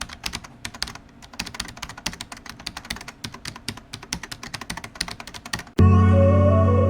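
Rapid, irregular keyboard typing clicks, then at about six seconds loud music with sustained electric piano or synthesizer chords cuts in abruptly.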